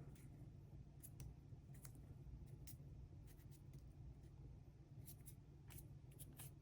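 Near silence with faint, scattered small clicks and rustles of cardstock being handled and pressed down by hand.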